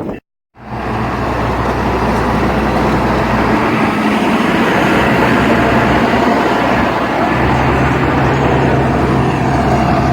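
Motor vehicle driving: a steady engine hum with road and tyre noise, the engine note shifting about a third of the way in and again past the middle. A brief dropout right at the start.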